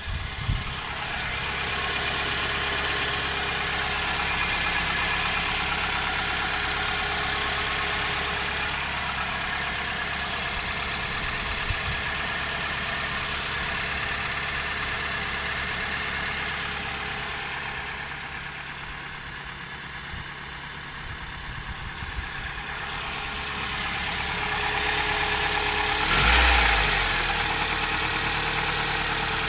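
Toyota 3S-FE 2.0-litre inline-four engine running at idle with a knock, the fault the owner is recording. Its level dips in the middle and rises again, and a sudden loud low thump comes near the end.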